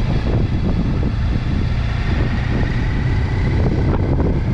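Heavy wind rushing over the microphone of a motorcycle underway, with a steady low rumble and a faint steady whine.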